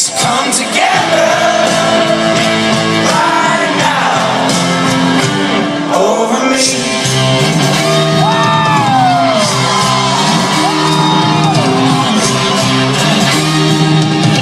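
Live rock band playing loudly with several voices singing together, and long whoops and shouts sliding up and down in pitch over the music about two-thirds of the way through.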